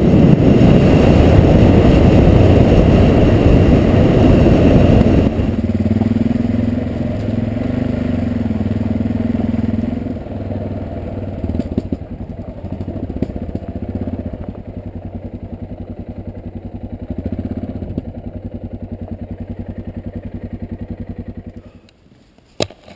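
Yamaha XT660Z Ténéré's single-cylinder engine running on the move, with heavy rushing noise over it for the first five seconds. The level then drops to a steadier engine note, drops again about ten seconds in, and cuts off suddenly near the end.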